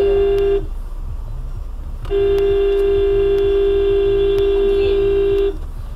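Vehicle horn blaring in two long held blasts: the first cuts off about half a second in, the second starts about two seconds in and is held for about three and a half seconds. A low road and engine rumble runs underneath.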